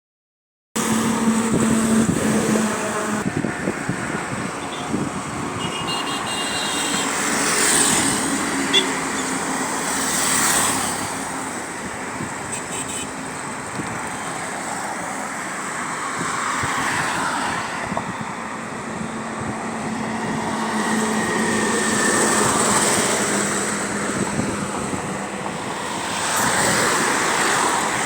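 Road traffic: a steady noise of vehicles with one passing close every few seconds.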